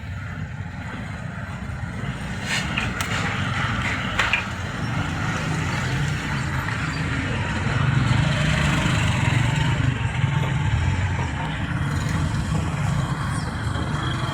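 Motor vehicle engine running close by on a flooded road, getting louder about eight seconds in, over general traffic noise, with a few sharp knocks around three to four seconds in.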